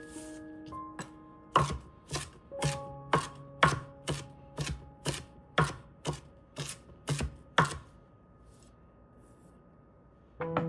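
Knife chopping on a cutting board in a quick run of sharp strokes, about two to three a second, for some six seconds before stopping.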